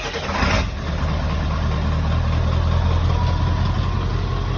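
A Ford 7.3L Powerstroke V8 turbodiesel running through a new 5-inch cat-back exhaust that is loosely mocked up without hangers. It revs briefly right at the start, then settles into a steady idle.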